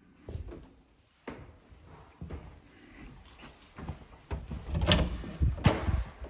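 Knocks, bumps and bangs of furniture and boxes being handled and moved, with two sharp bangs about five and six seconds in.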